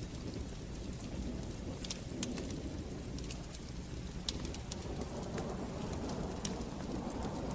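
Wood fire burning in a fireplace: a steady low rumble of flames with sharp crackles and pops every second or so.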